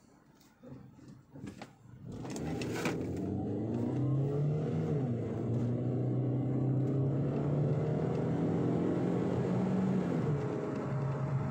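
2012 Skoda Octavia's 1.6-litre engine pulling hard from a standstill at full throttle, about two seconds in. Its pitch climbs through the gears, with upshifts about five seconds in and again near the end.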